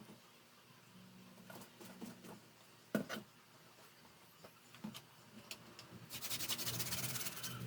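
Fan parts being cleaned by hand: faint rubbing and scraping, with a sharp click about three seconds in. Fast, scratchy scrubbing strokes follow near the end.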